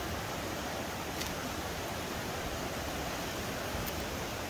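Steady rush of a nearby river, an even hiss of flowing water, with a couple of faint clicks about a second in and near the end.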